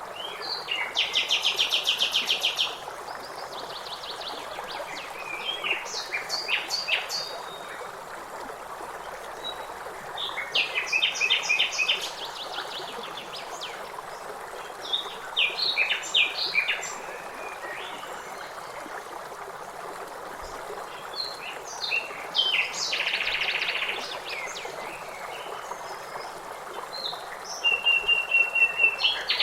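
Songbirds singing in bouts of rapid trills and chirps every few seconds over the steady rush of river water.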